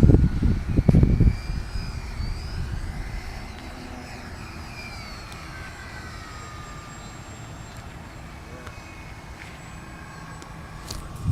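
The twin electric motors and propellers of an E-Flite P-38 Lightning RC model plane whine in flight, their pitch sliding up and down as the plane moves around. Wind buffets the microphone for about the first second, and again right at the end.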